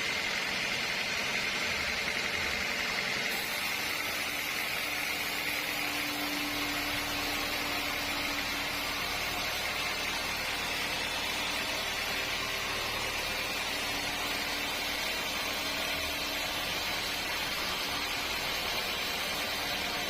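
Sawmill machinery running steadily, a constant noisy hum with a faint high whine over it.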